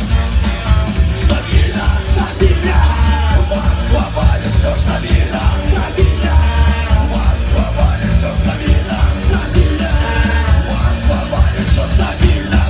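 Loud punk rock band played live, with shouted vocals over drums, bass and guitar.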